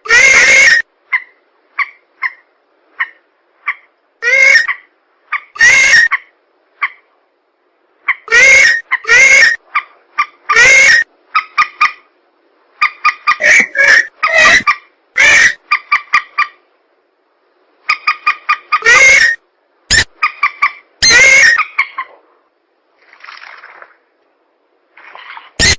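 Bird-lure recording of swamp-bird calls, rails (mandar) mixed with pelan: loud, harsh calls in short bursts, some single and some in quick runs of several notes, with brief silences between.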